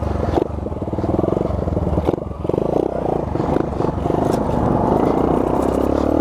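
Honda Z50R minibike's small single-cylinder four-stroke engine running under way, its note rising and falling with the throttle. A couple of sharp knocks cut through, one near the start and one about two seconds in.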